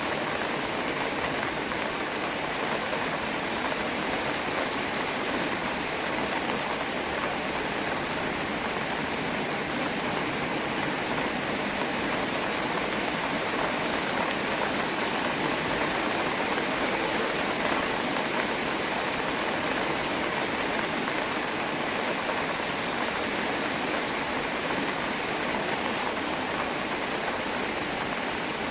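Steady rain falling, an even hiss of countless drops that holds at the same level throughout.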